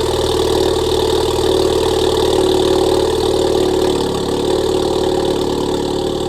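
A 2018 Honda Accord Sport 2.0T's turbocharged four-cylinder idling steadily after a cold start, through a catless PRL downpipe and a Borla exhaust. The idle dips slightly about four seconds in.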